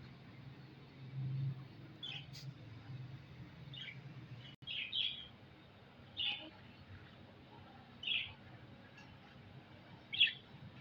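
Small pet parrots giving short, high chirping calls, one every second or two, over a low steady hum.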